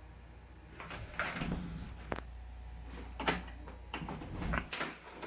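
A string of irregular knocks, clicks and rustles, like things being handled, over a steady low electrical hum.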